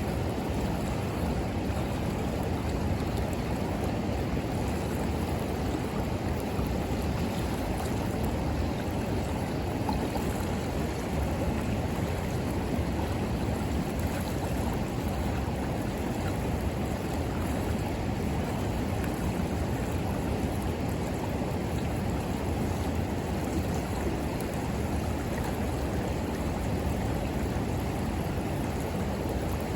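A river flowing past in a steady, even rush of water.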